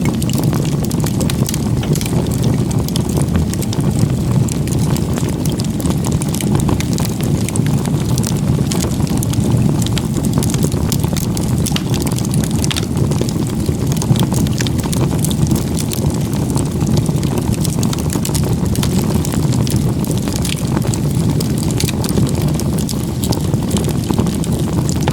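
Steady outdoor lakeside ambience: a low, even rush with many small crackling ticks throughout.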